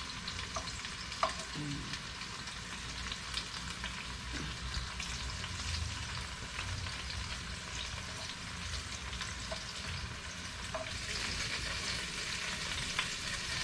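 Bacon-wrapped enoki mushrooms sizzling and crackling in a frying pan, with a few light clicks of tongs as pieces are lifted out.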